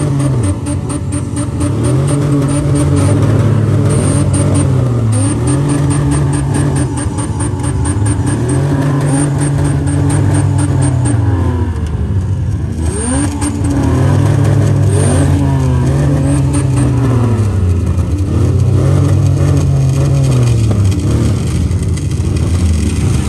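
Demolition derby engines revving hard and repeatedly, each pull rising and falling over a couple of seconds, with a brief pause about midway. Other derby vehicles' engines rev underneath.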